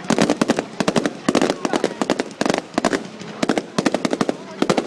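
Fireworks going off in a rapid barrage: dense clusters of sharp crackling pops and bangs, many a second, with short gaps between volleys.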